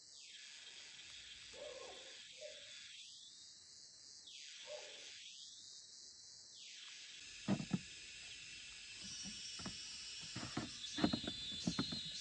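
Steady high chirring of insects, with a run of sharp knocks and thuds starting about halfway through.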